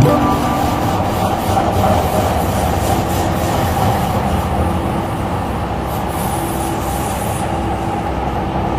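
MTR Tseung Kwan O line C-Train heard from inside the car, running steadily along the line: continuous rolling and wheel-on-rail noise with a faint steady whine from the electric traction equipment.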